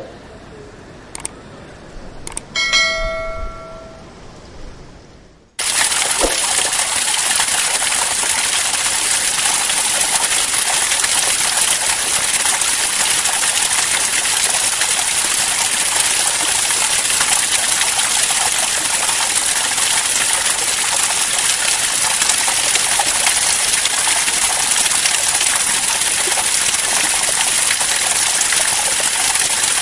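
Heavy, steady rain that starts abruptly about five seconds in. Before it there are a couple of faint clicks and a short ringing ding like a small bell.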